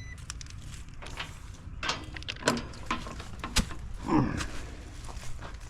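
Scattered clicks and knocks of handling over a low steady hum, with a brief pitched sound about four seconds in.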